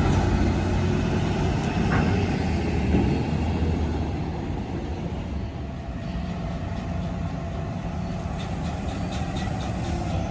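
Garbage truck's diesel engine running, louder at first and fading after about three to four seconds to a lower steady rumble.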